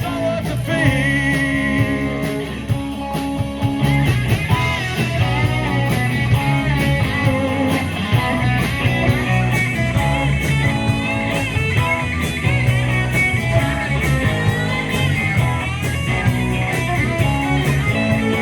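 Live rock band playing an instrumental break: a lead guitar line with bent, wavering notes over bass and a steady drum beat.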